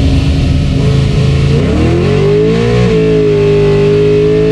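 Swapped V8 in a Chevy S10 pickup under hard acceleration, heard from inside the cab: the revs climb steeply about a second and a half in, drop briefly at a gear change about three seconds in, then keep rising.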